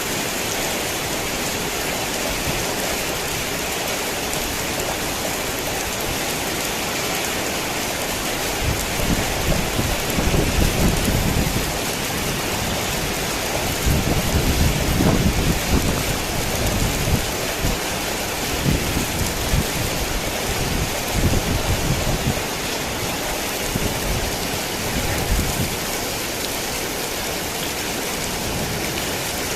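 Heavy rain falling steadily, with low rolls of thunder rumbling under it about a third of the way in and again near the middle, then dying down into the rain.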